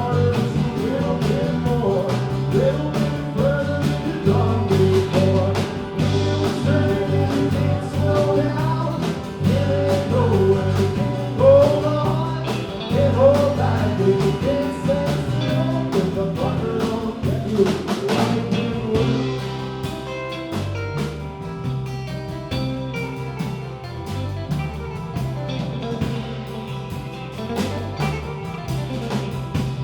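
Live band playing a rock song with guitar, bass and drums; a singer's voice carries the first two-thirds, then the band plays on without vocals.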